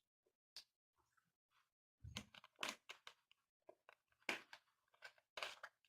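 Faint handling noises: a few soft clicks, then from about two seconds in a run of irregular crinkles and clicks.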